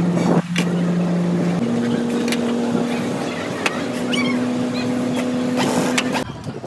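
A motor running at a steady pitch that steps up once about a second and a half in, then stops shortly before the end, with scattered sharp metallic clicks over it.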